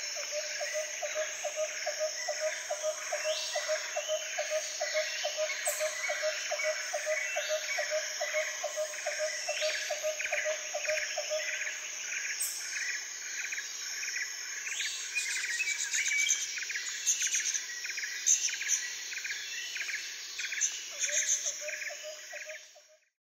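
Insects and birds calling: a steady high insect trill under repeated chirps, with a low pulsing call about three times a second that stops a little before halfway and comes back briefly near the end. It fades out at the very end.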